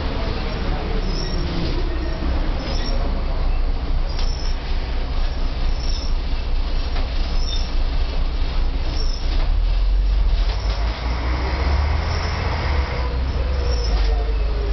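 Volvo B10M Mark II bus's underfloor six-cylinder diesel and ZF automatic gearbox heard from inside, a whine falling in pitch as the bus slows to a stop in the first couple of seconds. It then runs on at a steady rumble, swelling heavier for a few seconds, and near the end the gearbox whine rises and falls again.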